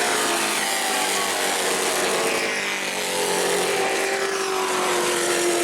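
Several race trucks' engines running at speed on a short asphalt oval, their notes overlapping. In the second half one engine note falls slowly in pitch as a truck goes by.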